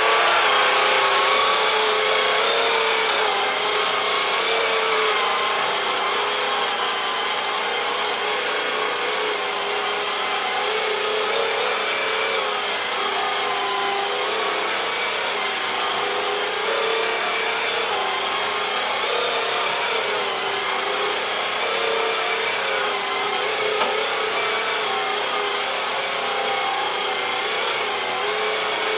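Cordless Swivel Sweeper's battery-powered motor and spinning brushes running steadily as it sweeps the floor, the hum wavering slightly in pitch with the load.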